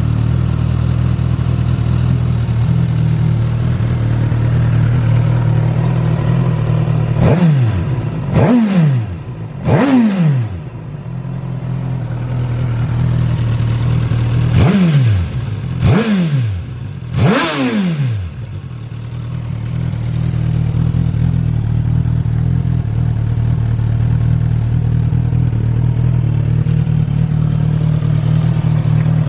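Suzuki GSX-S1000F's inline-four engine idling through a Yoshimura slip-on muffler. It is revved with six quick throttle blips in two sets of three, each rising sharply and falling straight back, and then settles to a steady idle again.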